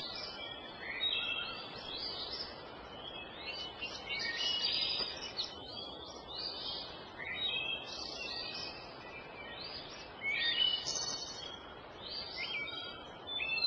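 Small birds chirping and twittering, many short overlapping calls, some held and some falling, over a steady outdoor hiss.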